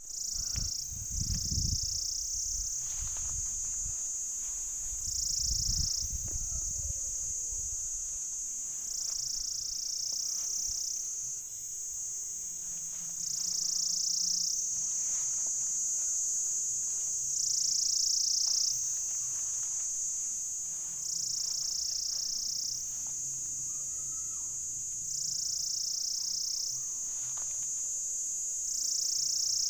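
Pycna repanda cicada calling: a continuous high-pitched buzz that swells regularly, about every two seconds. Low rumbling noise in the first several seconds.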